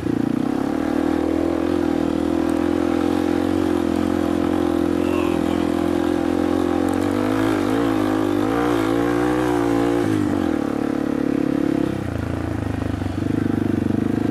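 Dirt bike engine running, its pitch wavering up and down with the throttle for a few seconds in the middle, then dropping off twice near the end as the revs fall.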